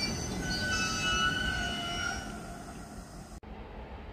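Train of tank wagons rolling past, its wheels squealing in several high steady tones over a low rumble. The squeal fades after about two seconds, and a sudden cut near the end leaves only a quieter low rumble.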